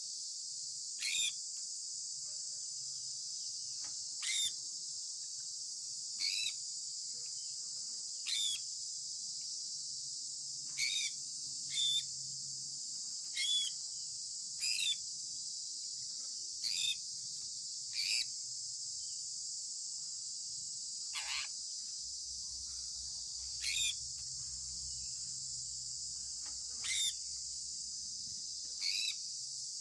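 Sun conure chirping: short calls every second or two, several sliding downward in pitch, over a steady high-pitched hiss.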